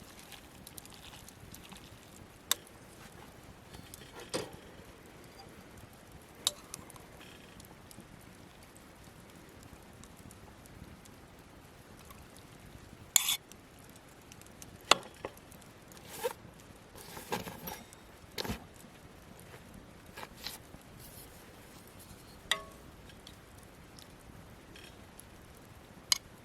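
Scattered short clicks and light knocks, about a dozen spread unevenly, over a faint steady hiss.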